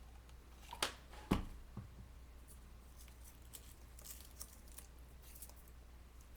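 Soft handling sounds of paper flowers being tucked into a birdcage: faint rustling and small ticks, with three light knocks on the work surface about a second in, the middle one the loudest.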